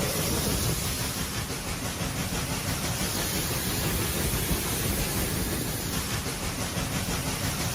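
A train running, heard as a steady low rumble under an even hiss, with no distinct knocks or whistles.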